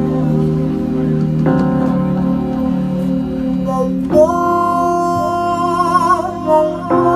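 Live band music: sustained chords that change about a second and a half in, again about four seconds in and just before the end, with a held melody line wavering in pitch over them.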